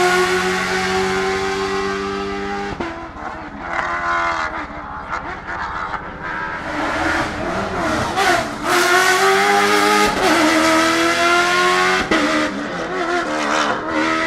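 Ford Raptor T1+ Dakar truck's 5.0-litre V8 revving hard: held high for the first few seconds, dropping sharply, then wavering and climbing again twice as the truck accelerates and lifts off.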